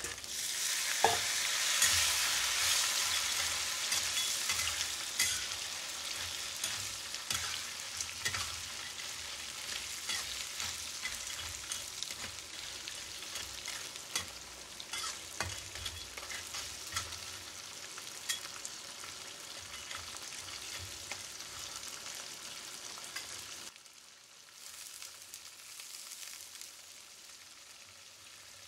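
Crawfish hitting hot oil in a wok: a loud sizzle that starts at once and slowly dies down, with a metal spatula scraping and clacking against the wok as they are stir-fried. About 24 s in the sizzle drops to a quieter frying.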